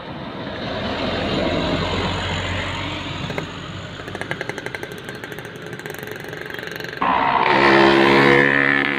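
Large truck passing with engine and tyre noise that swells and fades, then a rapid rattling. About seven seconds in the sound jumps abruptly to a louder, steady-pitched engine drone.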